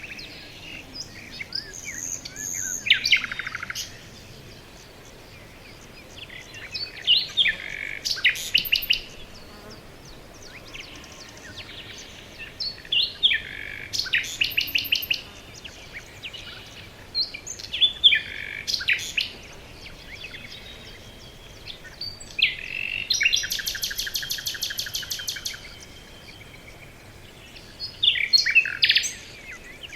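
Songbirds singing in a forest: short, high song phrases come about every five seconds, one of them a long, rapid, evenly spaced trill, over a faint steady hiss.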